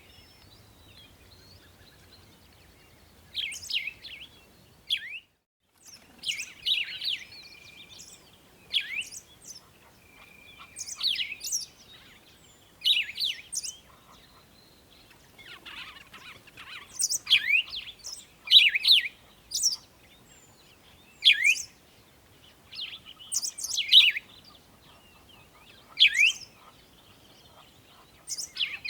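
Small songbirds chirping: short phrases of sharp, high, downward-sweeping notes, repeated every second or two.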